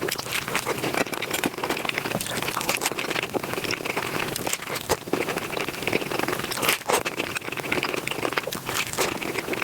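Mukbang eating sounds sped up five times: chewing, crunching and mouth noises run together into a dense, unbroken stream of rapid crackling clicks.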